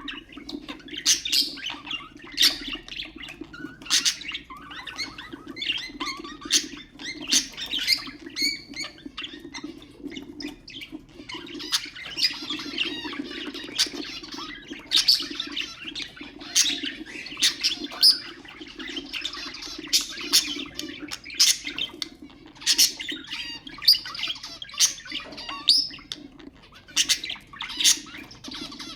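Budgerigars chattering and warbling without a break, with frequent sharp chirps and squawks cutting through, over a steady low hum.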